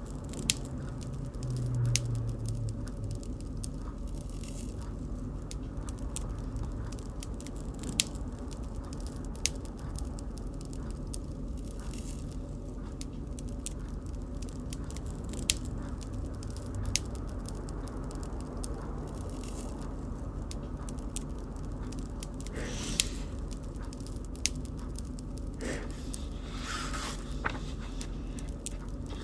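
Bonfire burning: a steady low rush of flames with sharp wood pops and crackles at irregular moments, a few seconds apart.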